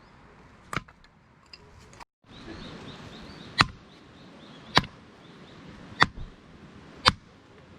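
An axe chopping firewood: one sharp strike into the wood, then four more about a second apart.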